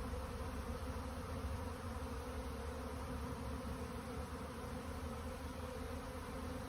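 Swarm of honeybees pouring out of a hive, a steady dense buzz from thousands of bees in flight.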